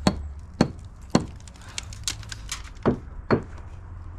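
Bricklaying trowel knocking against brick: five sharp strikes, three in quick succession and then two more about three seconds in, with lighter taps between, over a steady low hum.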